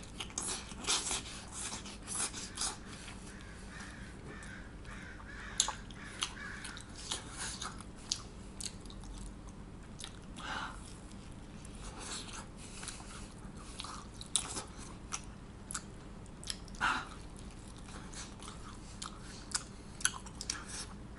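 A person biting into and chewing a slice of pizza, with scattered short wet mouth clicks and smacks at irregular moments.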